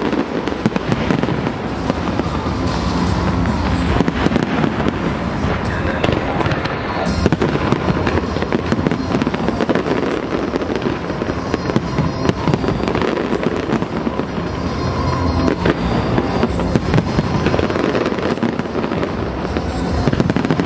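Large fireworks display: a continuous barrage of shell bursts, bangs and crackling with no pause, with music playing underneath.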